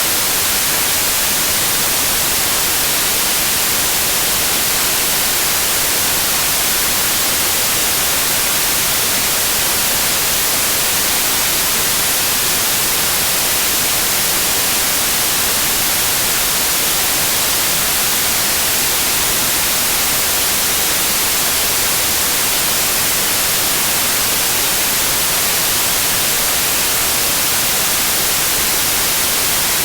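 Steady, unchanging white noise: an even hiss, brighter in the treble than in the bass.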